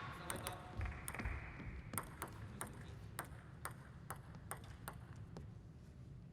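A quick, irregular series of sharp clicks from a plastic table tennis ball striking the table and bats, about a dozen in all, as crowd noise dies away at the start.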